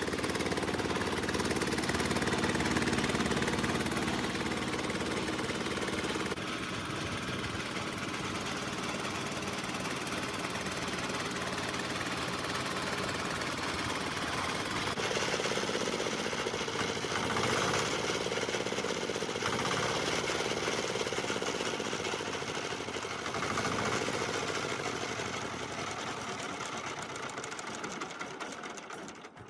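Restored rice-mill diesel engine running with a rapid, steady knock. Its tone shifts twice, and it fades out at the end.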